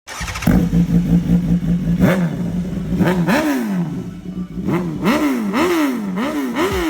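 Superbike engine idling steadily, then revved with a throttle blip about two seconds in and a run of quick blips, its pitch rising and falling about twice a second through the exhaust.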